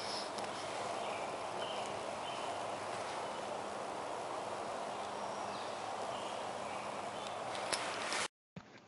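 Lawnmower engine running steadily, a constant drone that cuts off abruptly about eight seconds in.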